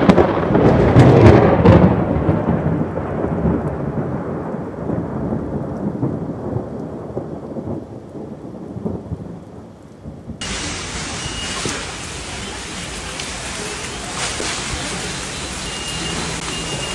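Thunder rumbling, loudest in the first two seconds and rolling away over about ten seconds. Then, from just past ten seconds in, steady storm noise of wind and rain.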